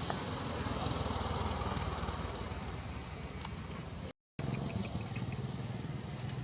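An engine running steadily with a low hum, cutting out completely for a moment about four seconds in.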